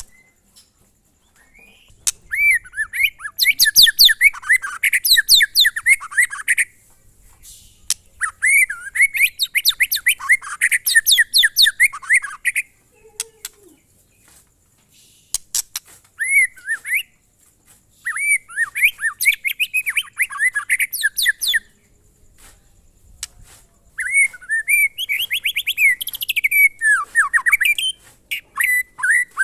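White-rumped shama (murai batu) singing in bursts of rapid, repeated whistled notes, phrases of a few seconds each broken by short pauses: the repetitive song style that fanciers call 'monoton' or 'glondong'.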